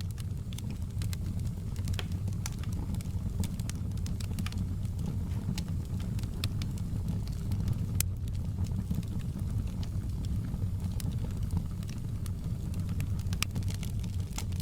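Campfire burning, with frequent sharp crackles and pops over a steady low rumble; the pops come thickest near the end.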